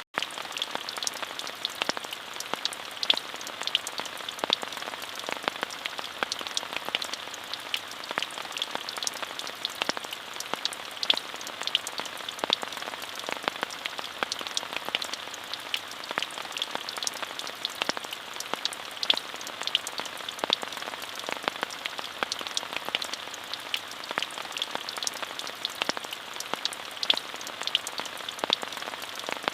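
Steady rain, an even hiss with many sharp individual drop hits ticking through it. A split-second dropout comes at the very start.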